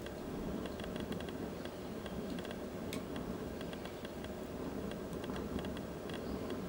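Wood fire crackling: many small irregular snaps and pops over a low steady rustle.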